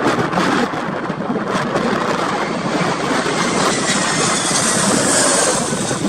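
Jet airliner's engines passing close by on landing: a steady rushing noise with a thin whine that slowly falls in pitch, and a high hiss that swells near the end.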